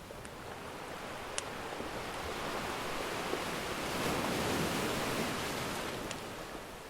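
An ocean wave breaking and washing up the shore, swelling for a few seconds and then receding. Faint pops of a crackling wood fire sound over it, three times.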